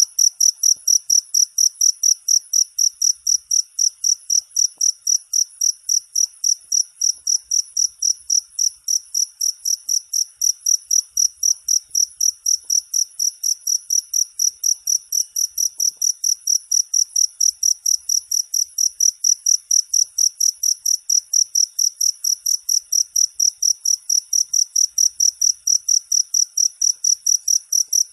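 Cricket chirping steadily in an even, high-pitched rhythm of about three chirps a second.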